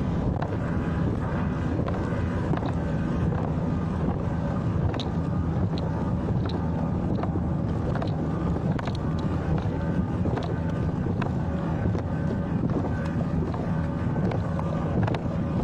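Boat motor running steadily, with wind on the microphone.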